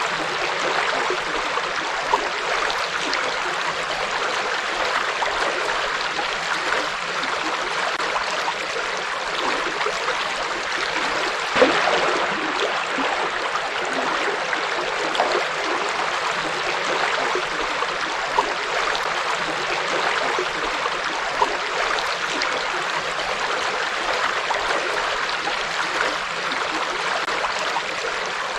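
Forest river flowing, a steady rushing of water with small splashes here and there, one a little louder about twelve seconds in.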